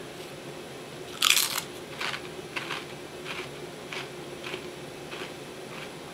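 A Pringles chip bitten with a loud crunch about a second in, then chewed with a run of softer crunches, about two a second.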